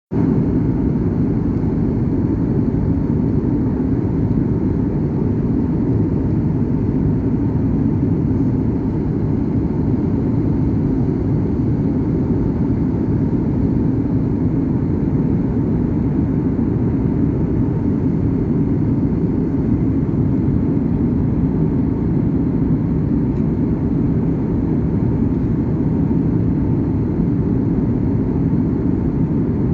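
Steady cabin noise of a jet airliner at cruising altitude: an even rush of engine and airflow noise, heaviest in the low range, with a faint steady hum over it.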